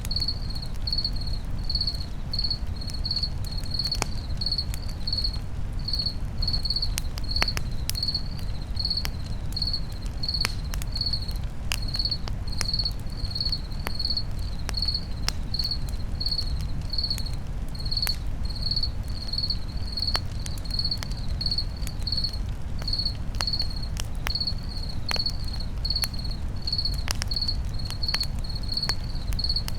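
A cricket chirping steadily, about twice a second, over a crackling campfire that gives off scattered sharp pops and a low rumble.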